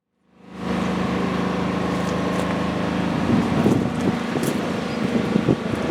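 Isuzu FVZ34 dump truck's diesel engine running with a steady hum. From about three seconds in, irregular louder noises come over it.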